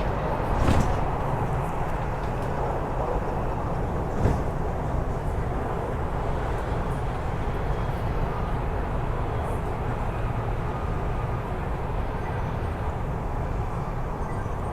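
Steady running noise of an MTR East Rail Line Hyundai Rotem R-train heard from inside the carriage, mostly a low rumble, with a couple of brief knocks in the first few seconds.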